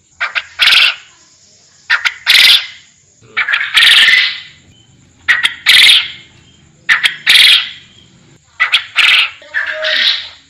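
Puyuh hutan, an Indonesian forest quail, calling over and over. Each call is a few short, sharp notes followed by a louder drawn-out note, repeating about every one and a half seconds.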